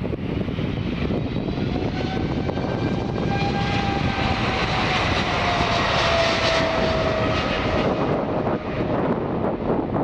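Boeing 777's GE90 jet engines rumbling as the airliner passes close by, with a whine that slowly falls in pitch; loudest about two-thirds of the way through.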